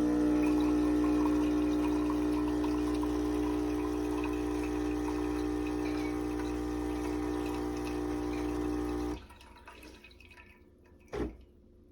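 Café Bellissimo semi-automatic espresso machine's pump running with a steady buzzing hum and water trickling, cutting off suddenly about nine seconds in. A single sharp click follows near the end.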